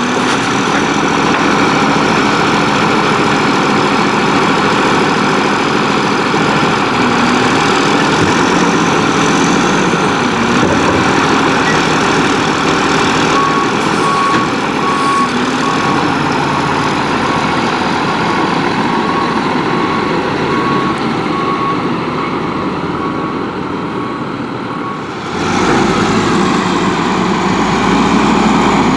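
Volvo WXLL garbage truck with a Labrie Expert 2000 body, its diesel engine running steadily. A reversing beeper sounds in a steady series of beeps from about halfway through. Near the end the engine suddenly gets louder and deeper.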